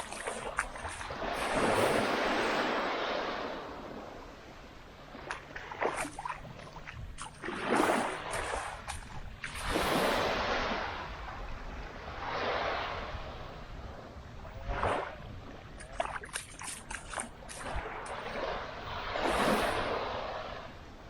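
Small waves breaking and washing up on a sandy beach, surging and fading in several swells a few seconds apart, with scattered light clicks between them.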